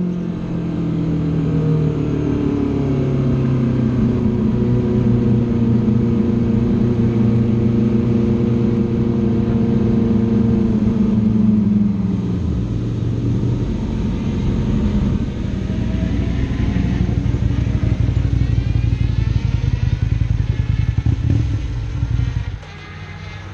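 Aprilia Tuono motorcycle engine heard onboard, running at fairly steady revs for about twelve seconds before the pitch eases down. It then carries on as a lower rumble, and the level drops off sharply a second before the end.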